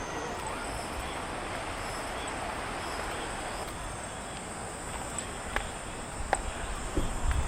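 Steady rushing of a mountain valley stream, with a thin high steady tone above it. A few sharp clicks come in the second half.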